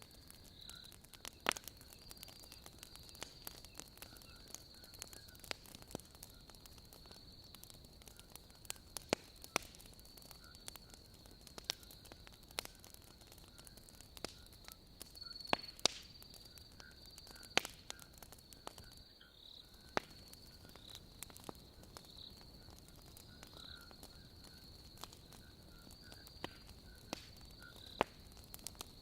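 Wood logs burning in a fireplace, crackling with sharp, irregular pops, a few louder than the rest, over a steady high-pitched chirring of night insects and a fainter pulsing call beneath it.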